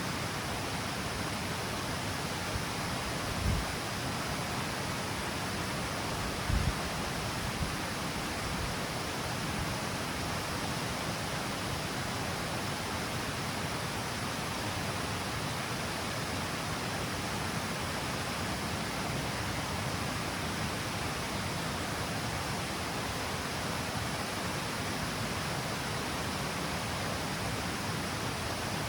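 River water pouring over the low steps of a small stepped cascade: a steady, even rush. A couple of brief low thumps come a few seconds in.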